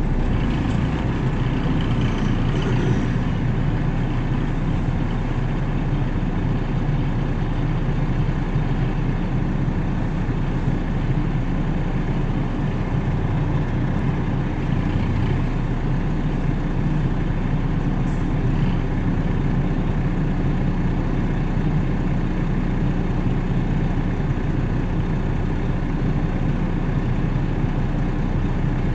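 Car engine idling while stopped, heard from inside the cabin as a steady low hum, with a truck crossing in front in the first few seconds.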